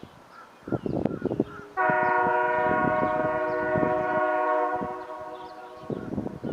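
New York and Atlantic Railway freight locomotive's air horn sounding one long chord of several tones for about three seconds, then fading away, amid a clatter of knocks.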